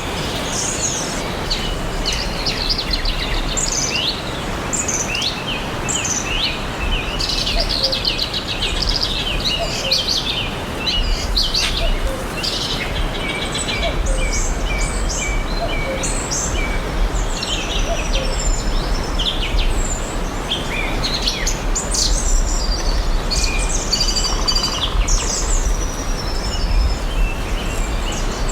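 Several forest songbirds chirping and singing at once, many short overlapping chirps and trills throughout, over a steady background hiss.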